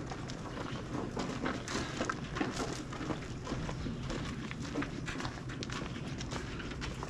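Footsteps with scattered light knocks and clatter, irregular and uneven throughout.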